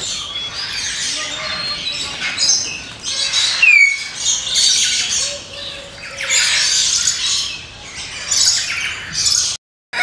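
Birds calling: a busy run of harsh squawks and chirps with a few short whistled notes, broken by a brief dead gap just before the end.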